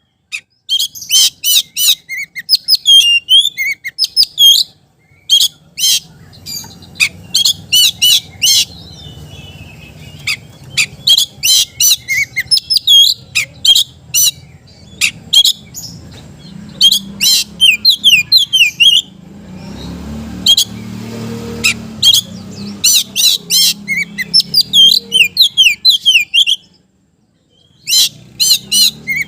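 Oriental magpie-robin (kacer) singing loudly in rapid strings of sharp chirps and whistled notes. The song breaks off briefly about five seconds in, again near twenty seconds, and once more near the end. A faint low hum runs underneath.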